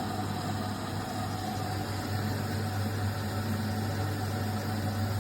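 Candy RapidO washing machine running with a steady, loud mechanical hum and rattle from inside. The owner puts this exaggerated internal noise down to something rubbing or out of adjustment.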